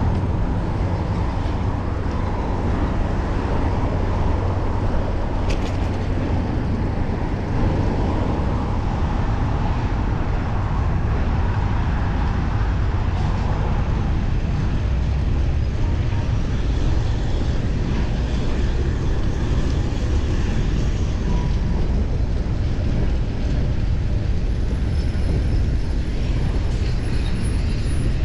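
Steady wind rush on the microphone with city street traffic, heard from a moving bicycle.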